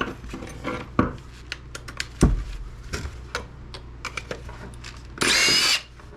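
Small clicks and knocks from a plastic food processor housing being handled during disassembly, then near the end a loud, high-pitched whine lasting about half a second.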